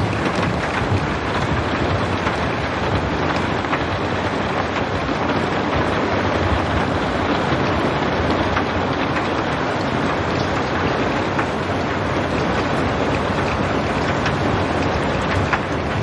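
Steady rain falling, without thunder: a dense, even hiss with scattered sharper ticks of single drops.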